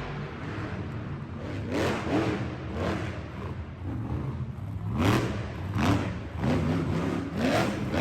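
Monster truck engine revving in repeated short rising bursts over a steady low running note, the revs coming quicker in the last few seconds.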